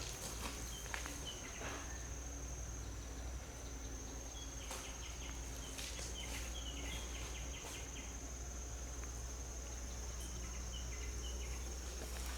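Steady high-pitched insect drone, with short chirps repeating in small groups and a few soft clicks or rustles.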